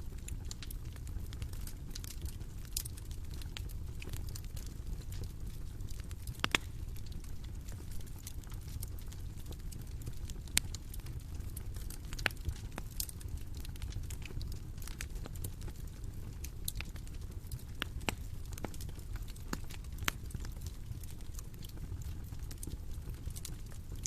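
Bonfire burning: a steady low rumble with scattered sharp crackles and pops, a few of them louder than the rest.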